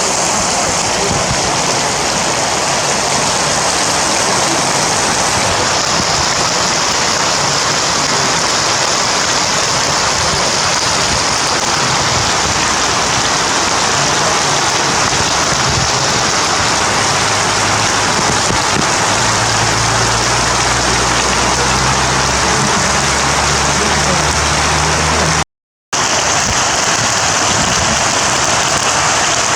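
Heavy rain falling steadily, a dense even hiss of rain on surfaces. A low rumble joins it for several seconds before it cuts to silence for half a second, about 25 seconds in, then the rain resumes.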